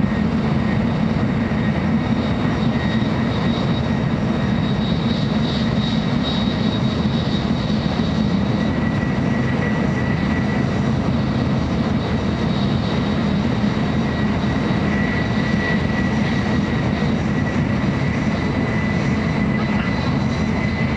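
Interior running noise of a JR Central N700A Shinkansen: a steady rumble with a thin high whine that rises slightly near the end.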